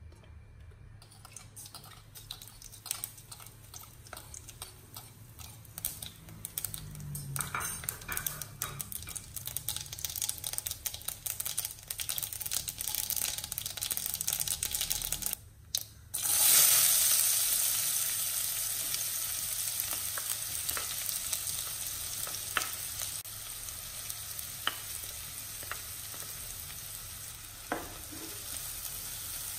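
Hot cooking oil crackling and spitting in a nonstick wok, the crackle growing busier as it heats. Just past halfway, after a moment of near silence, a sudden loud sizzle as chopped onions go into the hot oil, easing into a steady sizzle with a few spatula taps on the pan.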